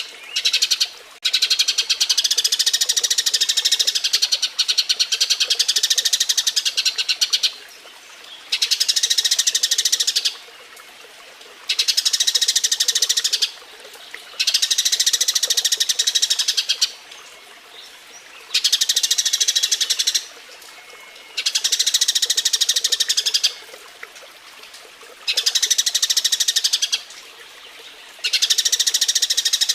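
Eurasian tree sparrows giving their excited mating chatter: rapid, high-pitched chirping in bursts of two to three seconds, broken by short pauses, over and over.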